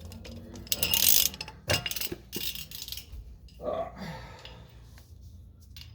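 Ratchet wrench and socket clicking, with metal tools clinking, in irregular bursts. The loudest is a scraping rush about a second in.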